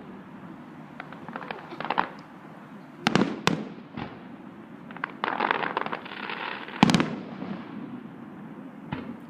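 Aerial fireworks exploding: sharp bangs, the loudest about three, three and a half and seven seconds in, with spells of dense crackling between them.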